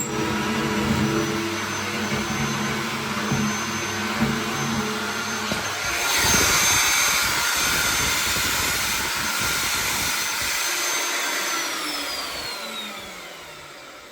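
Magnetic drill running a 35 mm annular cutter through steel, the motor running steadily under load. About halfway through it turns louder and noisier, then near the end it is switched off and spins down with a falling whine.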